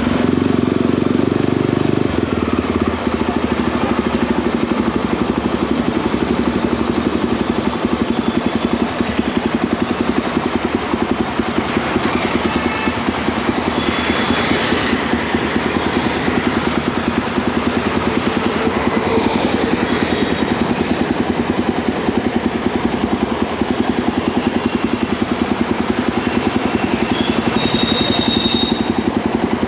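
Motorcycle engine running steadily under way, with wind and road noise over it; the low engine note changes about two seconds in.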